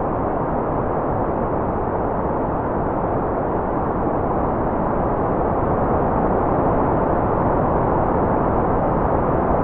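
Continuous white noise: a steady, even rushing sound with no tones, rhythm or breaks. It is deep and muffled, with little high hiss.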